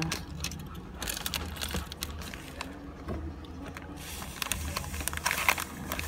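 Foil detergent sachet crinkling and rustling in the hand as powdered detergent is shaken out into a washing machine's detergent drawer, in irregular bursts that are loudest near the end.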